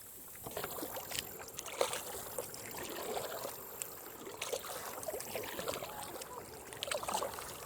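Kayak being paddled on calm lake water: faint, irregular splashes and drips from the paddle blades.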